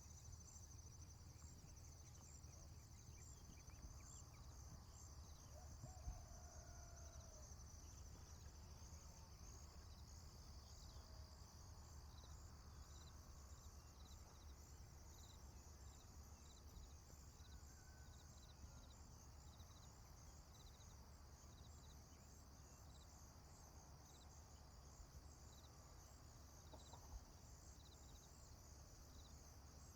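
Faint insects chirping in a steady, evenly pulsing high trill, over a low rumble. A few faint short calls rise above it now and then, around six seconds in and again near eighteen seconds.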